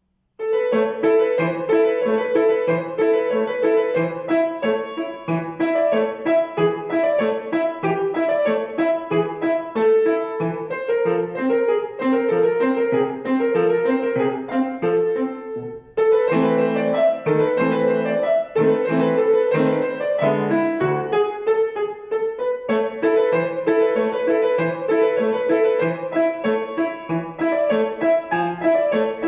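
Acoustic piano playing a classical piece; the playing starts abruptly about half a second in, and there is a brief break about sixteen seconds in before it resumes.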